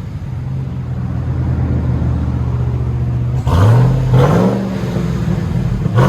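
2021 Ram TRX's supercharged 6.2-litre V8 idling on its factory exhaust, then revved twice in quick succession about three and a half seconds in, the pitch rising on each blip.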